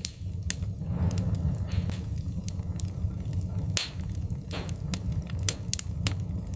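Wood fire crackling in a fireplace: a steady low rumble of burning with irregular sharp pops and snaps, a quick cluster of them near the end.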